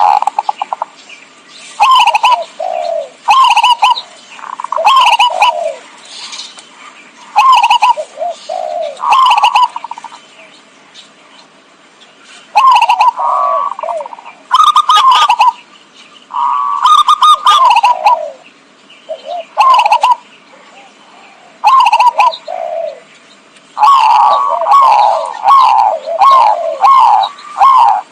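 Zebra dove (perkutut) cooing: bursts of short, falling, staccato coo notes separated by pauses, then a quicker run of notes near the end. It is a lure call used to attract wild zebra doves.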